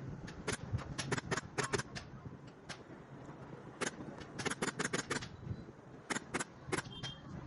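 Upholstery staple gun firing in quick runs of sharp clicks, several shots a second, in three bursts with pauses between.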